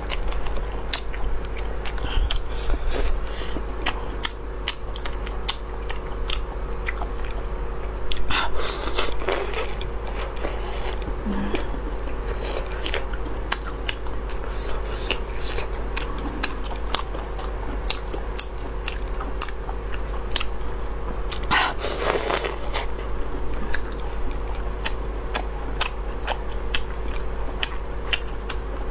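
Close-up eating sounds of ring sausage being bitten and chewed, with many small wet clicks of the mouth and two louder, longer spells of noise about 8 and 22 seconds in. A steady low hum sits underneath.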